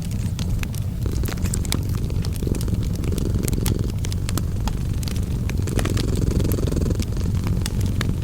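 A cat purring, a steady low rumble that swells and eases with each breath, over the scattered pops and crackles of a fireplace fire.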